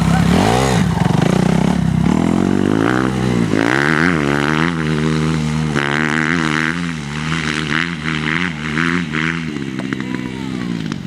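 Motocross dirt bike engines revving, the pitch climbing and dropping again and again as the throttle is worked. There is a quick rise and fall in pitch near the start.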